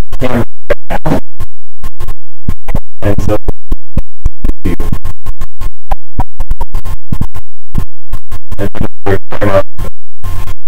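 Garbled call audio: voices broken into rapid stuttering fragments with abrupt dropouts between them, distorted and very loud.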